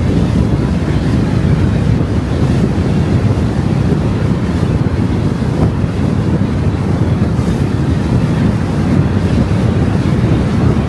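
Car driving along a road: steady, low rumbling road and wind noise, with no engine note or other events standing out.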